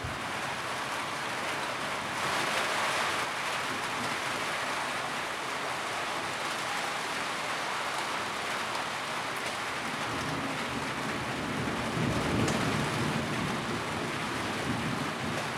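Steady rain drumming on a tin roof, a dense even patter. A low rumble swells briefly about twelve seconds in.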